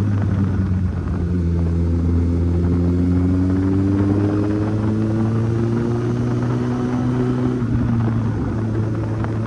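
Kawasaki Z800's inline-four engine running under way, its pitch rising slowly for several seconds and then falling abruptly about eight seconds in.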